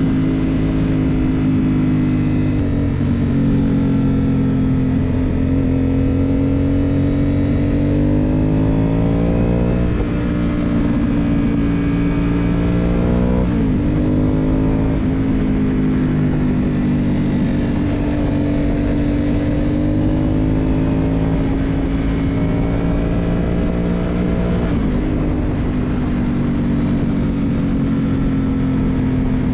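Aprilia Dorsoduro 750 V-twin engine with a Roadsitalia aftermarket exhaust, running under way with the revs holding steady and then climbing and falling several times. Sharp drops come about ten and fourteen seconds in, and the revs change again near the end.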